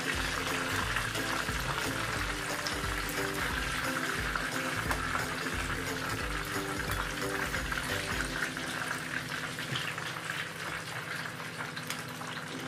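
Food frying in hot oil in a pan, a steady sizzle, with background music and a regular beat.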